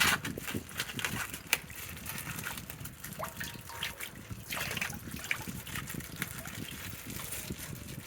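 Water splashing and trickling steadily, broken by many short, sharp splashes.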